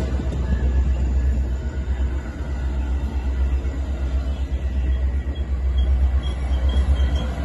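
Metra diesel commuter train pulling into the station with a steady low rumble. Faint high-pitched squealing, from brakes or wheels, comes in about five seconds in.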